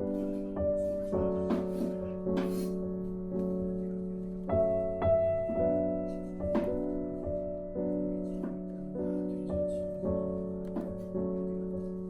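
Background piano music: a slow melody of single struck notes that ring on and fade.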